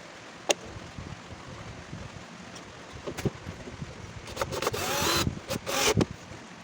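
Homemade mini table saw with a DC 895 motor running, with louder bursts of noise about four and a half and six seconds in.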